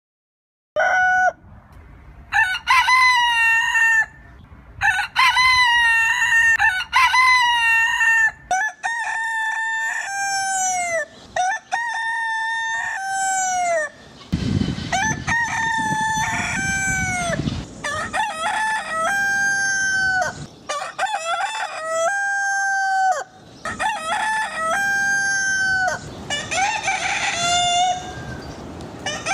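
Roosters crowing, one cock-a-doodle-doo after another, with several different birds in turn. The crowing starts about a second in.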